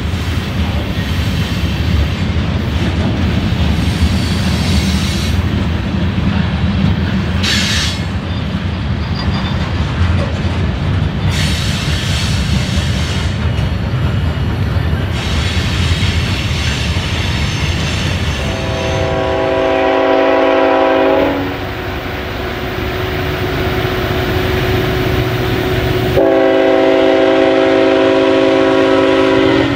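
Diesel freight train rumbling past with rail and wheel noise. About two-thirds of the way through, its multi-chime air horn starts a long blast, thins to fewer notes for a few seconds, then sounds fully again near the end.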